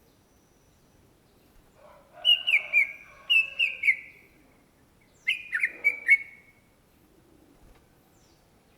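Greater green leafbird (cucak ijo) singing: two short phrases of quick, falling whistled notes, the first about two seconds in and the second about five seconds in.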